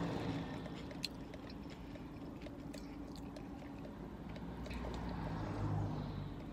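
Close-up mouth sounds of someone chewing a mouthful of sandwich, then sipping a drink through a straw from a fountain cup.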